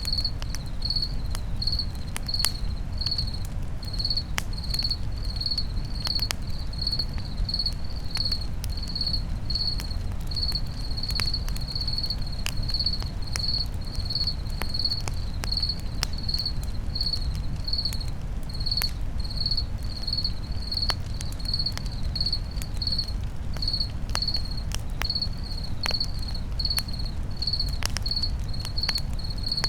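Crickets chirping in an even, repeated high chirp, a little under two a second, over a crackling campfire. The fire gives irregular sharp pops and a steady low rumble.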